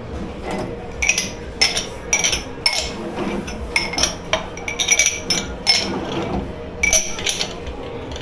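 Dishes and cutlery clinking as they are handled and stacked: a dozen or so sharp, irregular clinks, each ringing briefly, over a steady background hum.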